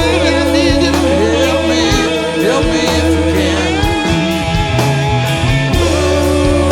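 Rock band playing live, with electric guitar, bass, drums and keyboards under singing.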